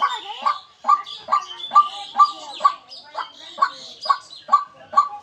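White-breasted waterhen calling: a steady run of short, repeated notes, about two a second.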